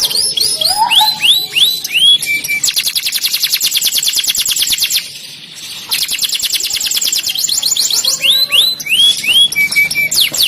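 Domestic canary singing: fast rolling trills of rapidly repeated high notes alternate with slower phrases of a few evenly spaced falling whistles, with a brief pause about halfway through.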